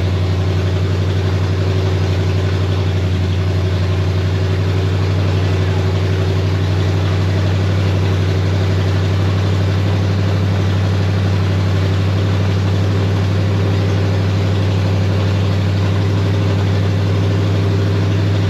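Chevy 327 small-block V8 idling steadily on its first run, fed through a temporary low-pressure electric fuel pump that bypasses the mechanical pump.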